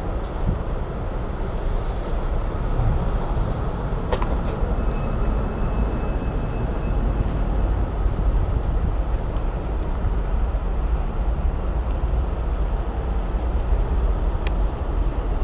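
Steady low rumble of a motor vehicle, with a couple of faint clicks.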